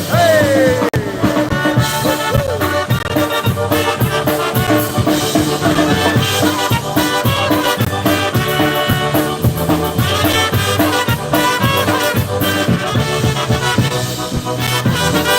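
Live polka band playing an instrumental passage, with brass and accordion over a steady beat. A falling slide is heard in the first second.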